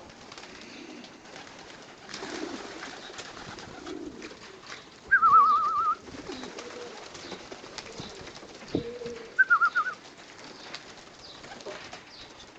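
Racing pigeons cooing in a loft, a steady low murmur of many birds. Two loud warbling whistles, each under a second long, cut in about five and about nine and a half seconds in.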